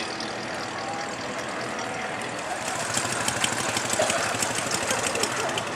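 A car engine idling, with a rapid ticking from about halfway through.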